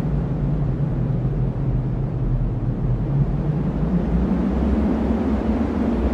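Cyclone-force wind blowing as a steady low rumble, with a faint moaning hum underneath.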